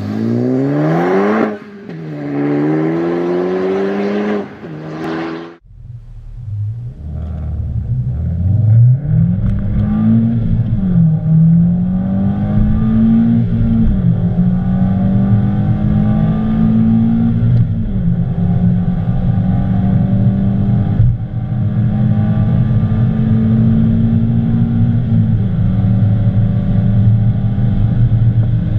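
2015 Honda Civic Type R's 2.0-litre turbocharged four-cylinder accelerating hard. It is first heard from outside as the car pulls away, its pitch climbing with two quick upshifts. Then, heard inside the cabin over a low rumble, it climbs through the gears near redline, the pitch dropping back at each upshift.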